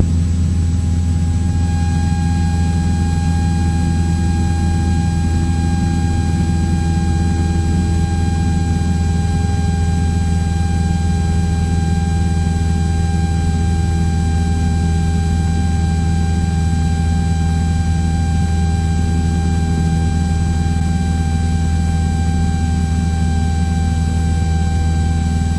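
A Cessna 172's four-cylinder piston engine and propeller drone steadily in the cabin during a climb at best-rate-of-climb speed, with a thin steady whine over the low drone.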